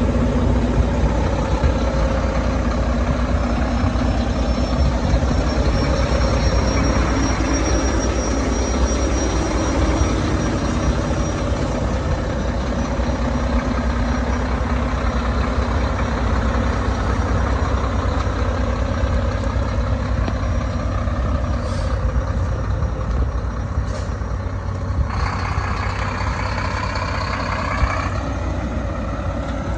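Diesel engine of a 2014 Mack CXU Pinnacle semi truck idling steadily just after start-up, a deep even rumble. A couple of faint clicks come near the end, followed by a rushing hiss lasting about three seconds.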